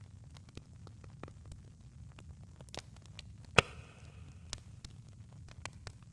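Campfire burning: irregular wood crackles and small snaps over a low steady rumble, with one loud pop about halfway through followed by a brief hiss.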